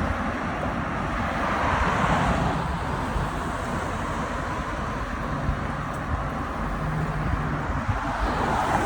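Street traffic noise mixed with wind rumble on the microphone of a moving bicycle, swelling about two seconds in and again near the end.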